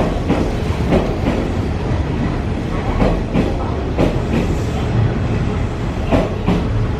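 Hanshin Railway electric train running past the platform, with a steady rumble and its wheels clacking over rail joints in close pairs of beats.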